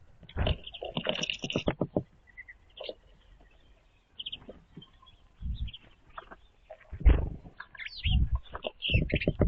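Small songbirds at a bird feeder: short high chirps, scattered through, with several dull knocks and thumps, including a quick run of about five knocks near the start.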